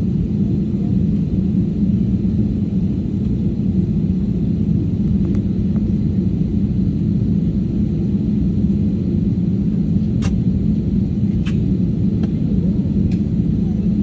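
Steady low drone of an airliner's cabin: engine and air-system noise heard from a seat. A few light clicks come near the end.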